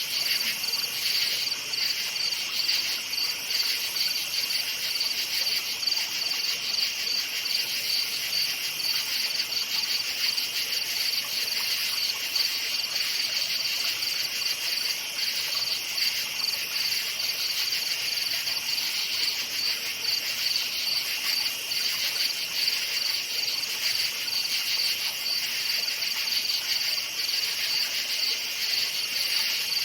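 Crickets chirping in a dense night chorus: a steady, high, rapidly pulsing trill, with a second, slightly lower chorus layered beneath it.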